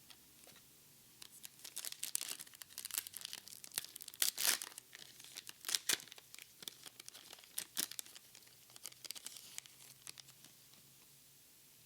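Foil Pokémon card booster pack wrapper being torn open and crinkled: an irregular run of crackling tears and rustles, loudest around the middle and fading out near the end.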